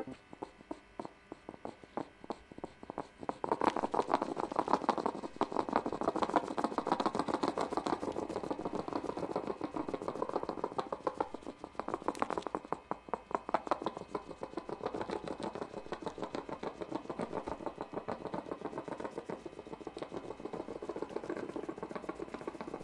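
Echidna foraging in grass and leaf litter: a dense, irregular run of fast sniffing clicks and rustles that grows louder about three seconds in.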